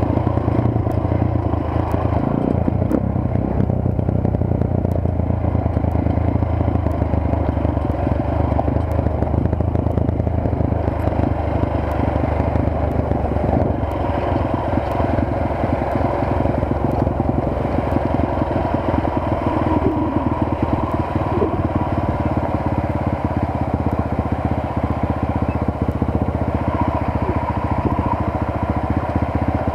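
Motorcycle engine running steadily while riding, with a continuous low engine note under road and rushing noise.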